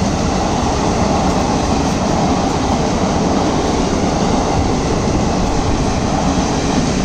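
Passenger coaches of an express train passing at speed close by: a steady, loud rumble of wheels on the rails.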